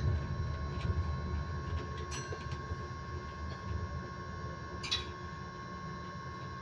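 Electric bus on the move, heard from inside: a steady high-pitched tone holds on one constant pitch over the low rumble of the running bus. Two brief sharp clicks come about two seconds in and again near five seconds.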